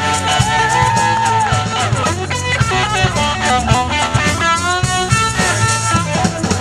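Live blues-rock band playing an instrumental passage: lead guitar with bent notes and wide vibrato over drum kit and bass.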